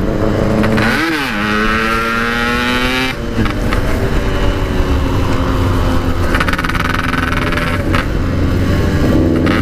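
Yamaha RX-King's 135cc single-cylinder two-stroke engine, fitted with a Packing Power aftermarket exhaust, accelerating on the road. Its pitch rises steadily for about two seconds, falls sharply at a gear change about three seconds in, then runs on fairly steadily.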